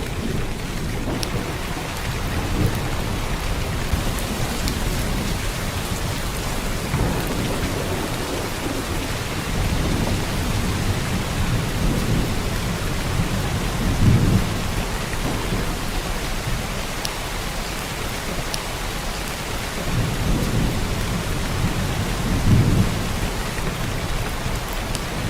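Heavy rain pouring down in a steady hiss, with low rumbles swelling up a few times, strongest about halfway through and near the end.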